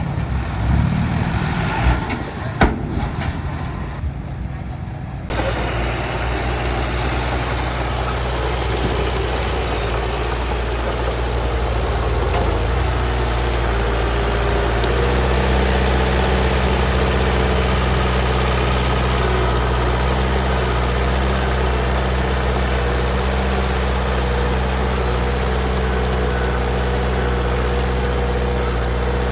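A few knocks and a sharp click, then from about five seconds in a heavy machine's engine running steadily, its sound growing fuller about halfway through.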